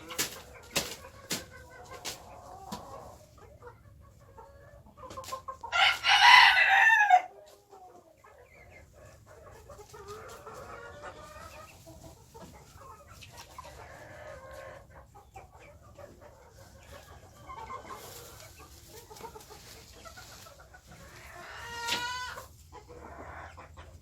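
A flock of young White Face Spanish chickens clucking softly, with one loud harsh call about six seconds in and another shorter call near the end. A few sharp clicks sound in the first second or so.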